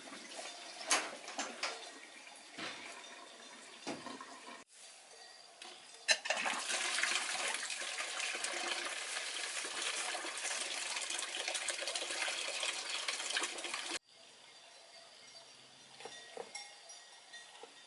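A few clinks and knocks, then water running or splashing steadily for about eight seconds before it stops abruptly.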